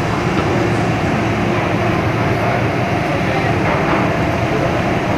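MTR M-Train electric multiple unit running steadily, heard from inside the carriage: continuous rumble of wheels and traction equipment with a few faint steady tones.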